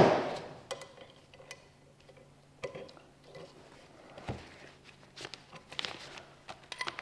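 Small metal valve-body parts being handled: a sharp knock at the start, then scattered light clicks and taps as valves and springs are pulled out and set down.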